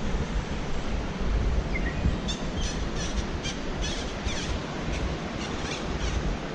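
Wind rumbling on the microphone over a steady outdoor hiss, with a bird chirping a quick series of about a dozen short, high notes, some falling in pitch, from about two seconds in until near the end.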